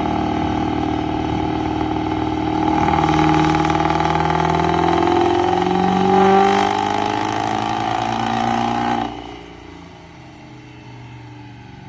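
Diesel pickup truck engine held at high revs under heavy load, its pitch drifting slightly, growing louder about two seconds in, then cutting off sharply about nine seconds in.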